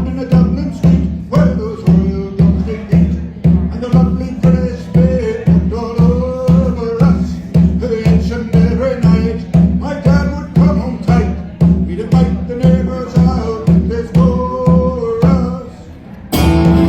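Live band playing: a steady drumbeat about twice a second under a melody line. Shortly before the end the beat drops away for a moment, then a louder, fuller section comes in.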